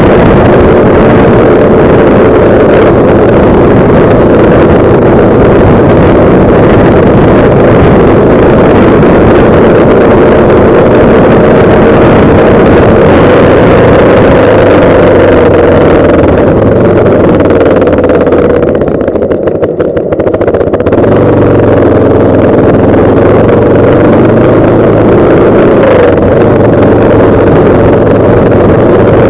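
Yamaha Lander 250 single-cylinder motorcycle engine running steadily under way, mixed with loud wind rush on the microphone. The wind noise dips briefly about two-thirds of the way through.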